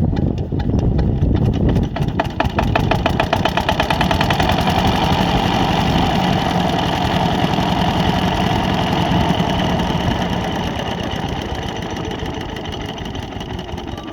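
Engine of a farm water pump running with a rapid, even firing beat; it grows quieter over the last few seconds.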